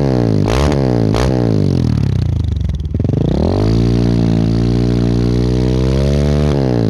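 KTM 690 SMC R single-cylinder engine through a Wings aftermarket exhaust, revved in quick blips at first. About three seconds in the revs climb and are held steady for about three seconds, then drop back near the end.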